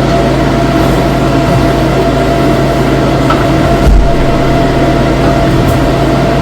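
A loud, steady mechanical drone with a constant hum, and a single low thump about four seconds in.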